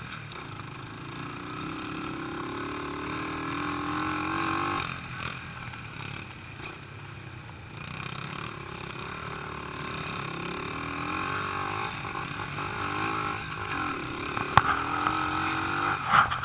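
Pit bike engine revving as the bike accelerates around the yard, its pitch climbing, then easing off about five seconds in before building again. A single sharp click comes near the end.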